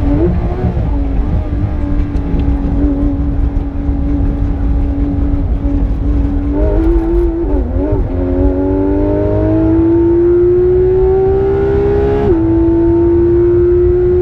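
Porsche 991.2 GT3 RS's naturally aspirated flat-six engine under hard driving, heard from inside the car: its note holds level, dips and wobbles briefly about halfway through, then climbs steadily through the revs, drops sharply at a quick upshift near the end and climbs again. A heavy low rumble runs underneath.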